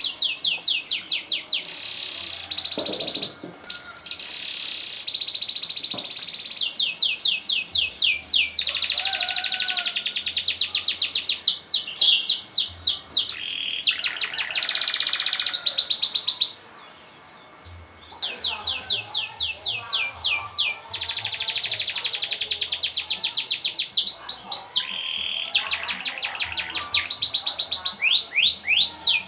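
Domestic canary singing a long rolling song: fast trills of rapidly repeated high notes, phrase after phrase, with one brief pause a little past the middle.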